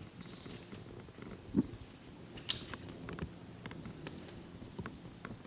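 Sweet chestnuts being gathered off the forest floor: scattered light clicks and knocks with faint rustling, the two loudest knocks about a second and a half and two and a half seconds in.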